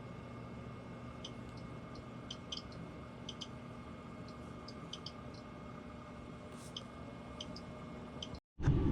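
Steady low background hum with scattered faint light clicks, cut off abruptly near the end by a brief silence and then a louder sound.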